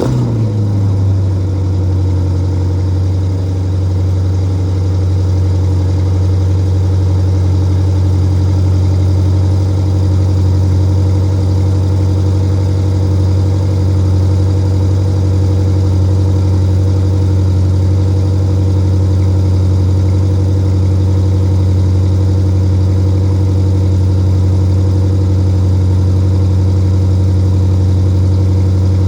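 Porsche Cayenne Turbo GT's twin-turbo V8 idling on a cold start. The revs fall from the start-up flare in the first second, then the engine holds a steady, even idle.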